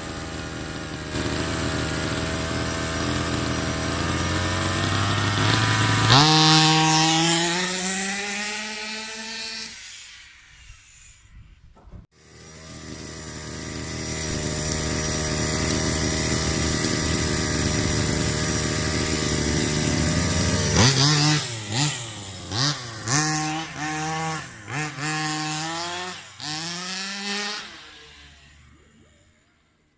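Two-stroke 45cc engine of a 1/5-scale Rovan Baja RC car running at high revs. Its pitch climbs and then drops away around six to ten seconds in. It then runs high and steady again, revs up and down in a string of short bursts, and fades out near the end.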